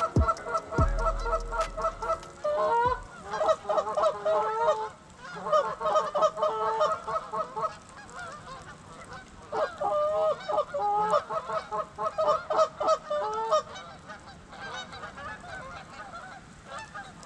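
Geese honking: rapid runs of repeated honks in several bouts, growing fainter near the end.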